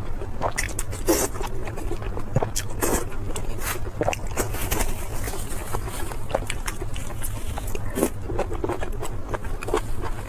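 Close-miked eating: irregular crunchy bites, chewing and wet mouth smacks, over a steady low hum.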